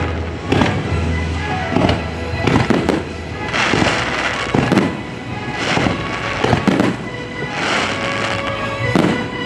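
Fireworks bursting overhead in quick succession, about a dozen sharp bangs with stretches of crackling, over the show's music soundtrack.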